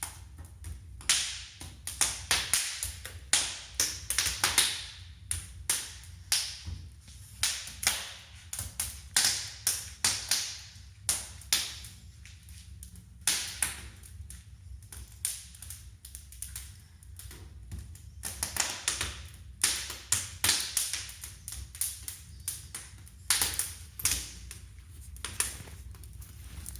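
Wood fire crackling and popping in a brick fireplace firebox: sharp, irregular cracks several times a second over a low steady rumble.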